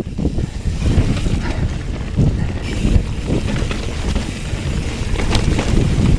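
Wind buffeting the microphone over the rumble of a Bird Zero 29 hardtail mountain bike's tyres on a dirt trail at speed. Scattered knocks and rattles come from the bike as it rides over the rough ground.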